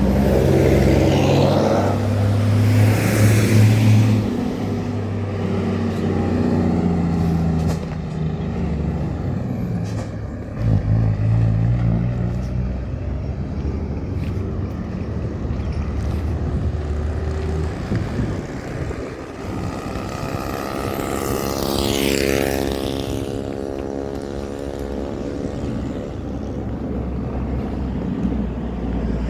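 Motor vehicles passing on a road, engines running, with one going by a few seconds in and another passing close about three-quarters of the way through, its noise swelling and fading.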